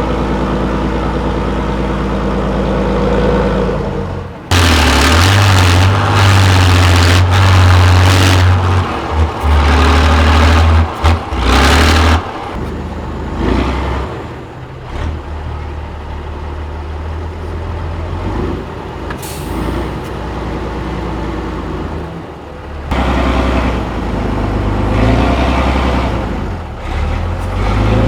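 Heavy off-road trial truck's diesel engine working hard: it runs steadily, then revs loud under load for several seconds, drops back to a lower, uneven run, and builds up again near the end.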